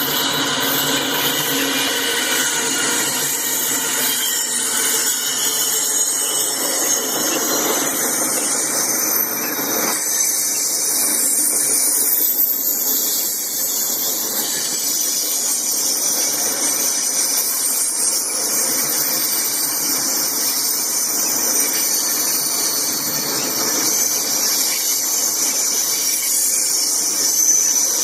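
Freight train rolling past: a steady, loud rumble and hiss of steel wheels on the rail, with high-pitched metallic squealing.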